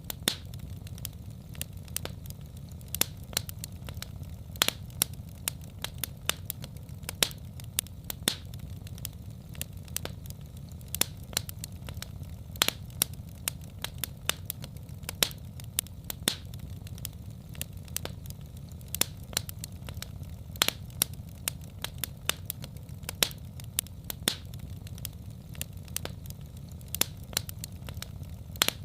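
Wood fire in a fireplace crackling: irregular sharp snaps and pops, several a second with some louder ones, over a steady low rumble.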